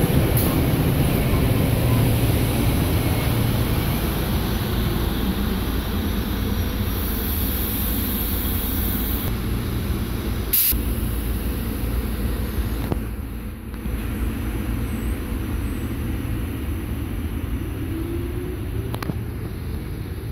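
SEPTA Silverliner electric commuter train pulling away along the track: a steady rumble of wheels on rail and running gear that slowly eases off as it goes, with a single sharp clank about halfway through.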